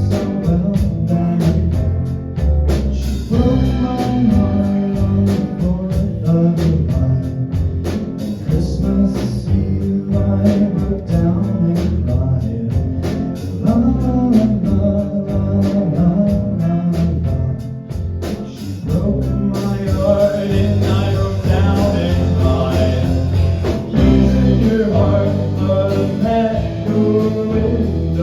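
A live song performance: singing over guitar with a steady beat.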